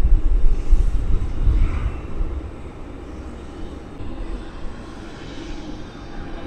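Jet airliner engines rumbling, loud and deep for the first two seconds, then fading to a quieter steady rumble.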